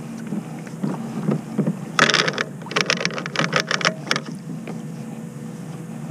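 Trotline chain rattling and clattering as it comes up over the kayak's line roller, a dense run of rapid clicks lasting about two seconds, over a steady low hum.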